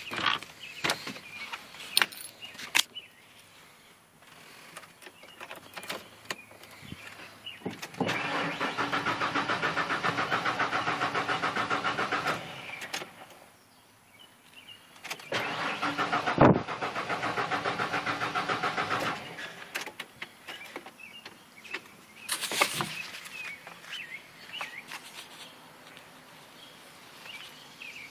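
A few clicks, then a 1993 pickup truck's engine cranked twice on the starter, each time for about four seconds of steady rhythmic churning, without catching. After two years sitting, it is short of fuel.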